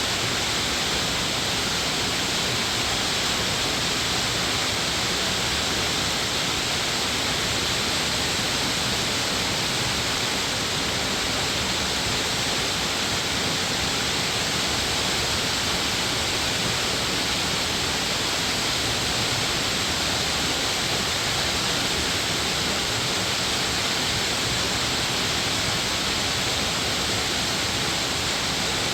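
Steady rushing of a mountain stream's rapids or waterfall, an even hiss of falling water with no breaks.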